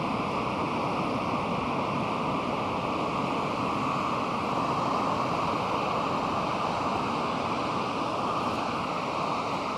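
Pacific Ocean surf washing steadily onto the beach, a continuous rushing hiss that swells slightly around the middle.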